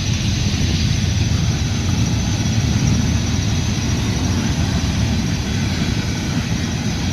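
Freight train of oil tank cars rolling past, a steady, even rumble, with rain hissing over it.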